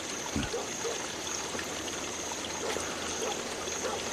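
Steady, low trickling noise like running water, with a short soft thump about half a second in.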